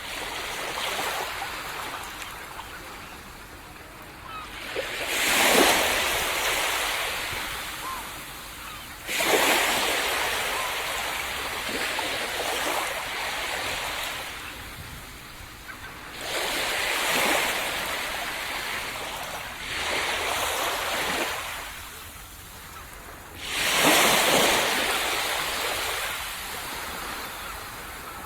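Sea waves breaking on a sandy beach, about five times, each a sudden rushing surge that fades slowly as the water washes up the shore.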